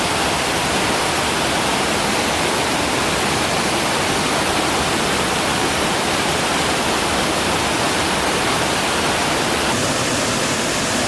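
Steady, loud rush of fast-flowing water, as at a waterfall or stream rapids, with no separate splashes or strikes.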